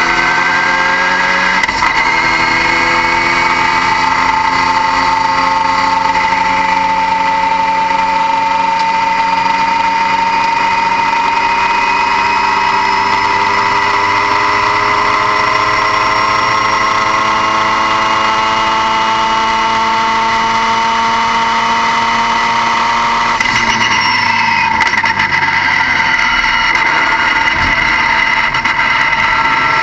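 A vehicle engine running steadily with a high whine that slowly climbs in pitch, changing character about 23 seconds in.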